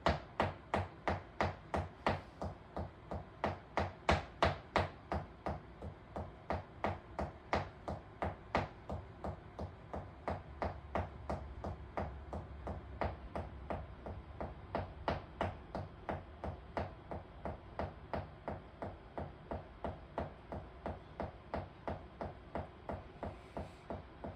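A dog's wagging tail thumping against a hard surface in a steady rhythm of about three knocks a second, a little softer in the second half.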